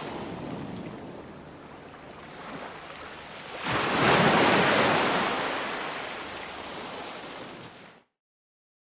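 Ocean surf: a wave builds and breaks about four seconds in, then washes out and fades. Near the end the sound cuts off abruptly to dead silence.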